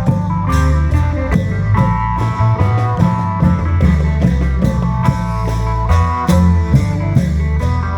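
Amplified Isan klong yao band music: a steady drum beat under a heavy bass line and a melody line.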